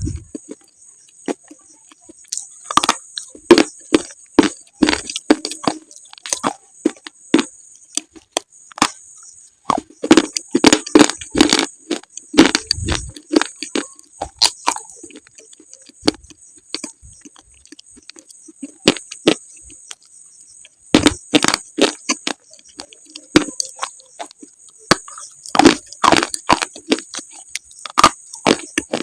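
Slate pencils or slate pieces being bitten and chewed, giving irregular sharp cracks and crunches in clusters with short pauses between.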